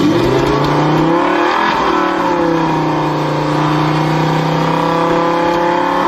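Car engine accelerating at high speed: its pitch climbs for the first second and a half or so, eases slightly, then holds steady and loud.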